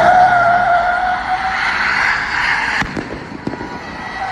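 Car tyres squealing in a long skid, a steady high screech that fades about three seconds in. A couple of sharp knocks follow near the end.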